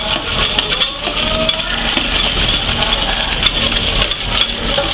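Small engine-driven coffee-processing machine running steadily, with many short clicks and rattles over the engine hum.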